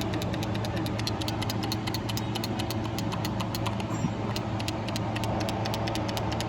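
Car engine idling steadily with a fast, even ticking, about six ticks a second, over its hum.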